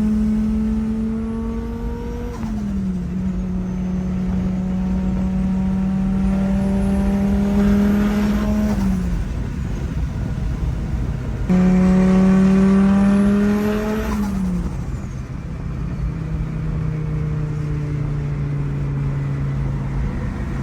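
Fiat Marea's engine and exhaust under way at steady revs, its pitch dropping a step twice as the revs fall. There is a sudden cut about halfway through, where it jumps back to higher revs.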